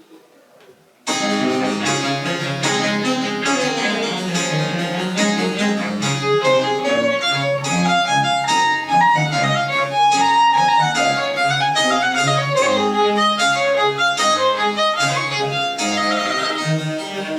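Small Baroque chamber ensemble playing French Baroque music, with a violin leading over other bowed strings and a bass line. The music starts abruptly about a second in.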